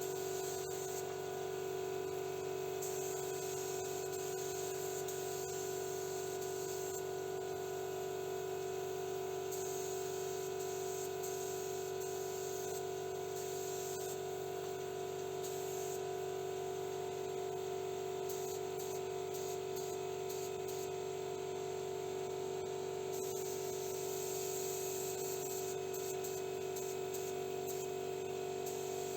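Paint spray gun hissing in passes of a few seconds as clear coat is sprayed, over a steady motor hum from the spray equipment.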